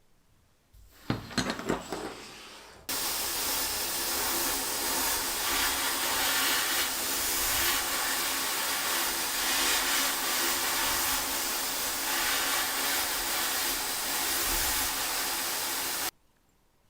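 A few knocks and clatter of handling, then a workshop machine switches on and runs with a steady, loud hiss for about thirteen seconds before cutting off suddenly.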